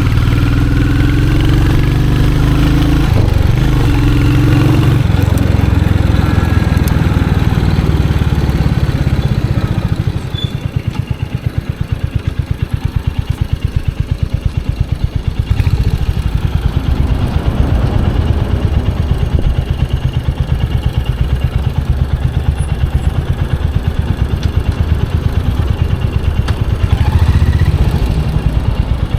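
Royal Enfield Hunter 350's single-cylinder engine and exhaust running under way, then dropping to a steady thumping idle about ten seconds in. The revs rise briefly near the end.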